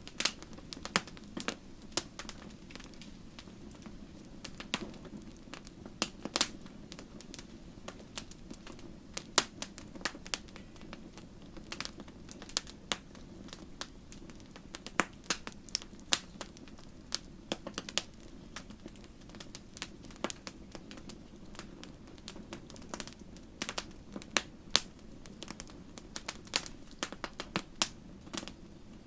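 Wood fire crackling: irregular sharp pops and snaps, some louder than others, over a steady low rush of burning.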